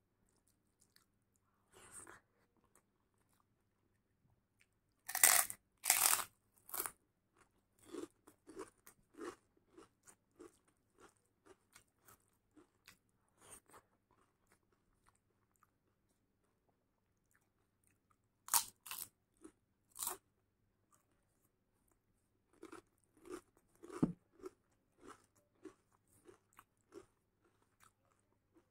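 Close-miked eating: a few loud, sharp crunching bites into crunchy food, a few seconds in and again about two-thirds through, with quieter, even chewing at about two strokes a second in between.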